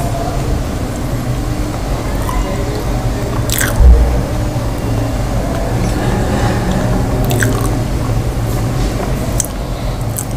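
Close-miked chewing of a mouthful of soft potato and cauliflower curry with flatbread, with a few short wet clicks and one low thump about four seconds in.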